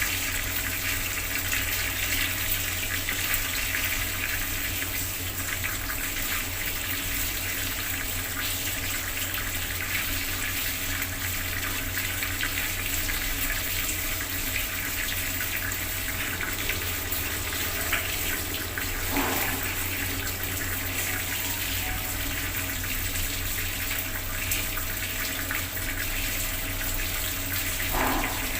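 Bathroom tap running at full flow, water splashing down in a steady, unbroken rush.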